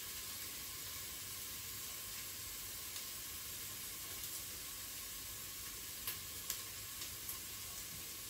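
Minced garlic and ginger sizzling in hot oil in the inner pot of a Crockpot Express electric pressure cooker on its frying setting: a steady hiss with a few small pops.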